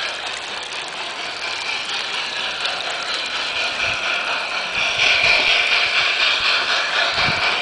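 Garden-scale model train running on its track: a fast, steady mechanical rattle of gears and wheels that grows louder about five seconds in.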